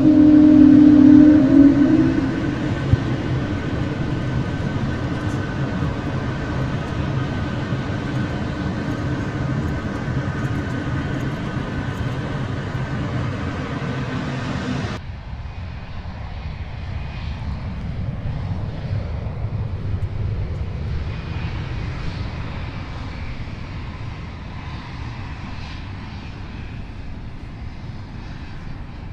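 Jet airliner engines: a steady roar with a held whine for about half the time, then an abrupt change to a rumbling roar that slowly fades.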